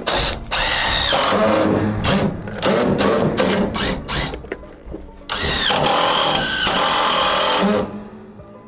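Power drill running in several loud bursts, the longest near the end, its motor pitch sagging as it takes load, as when driving screws.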